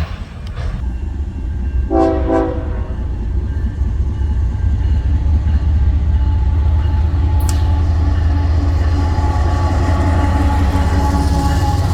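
Train locomotive horn giving one short blast about two seconds in, then the heavy low rumble of diesel locomotives and rail cars growing louder and holding steady as the train passes.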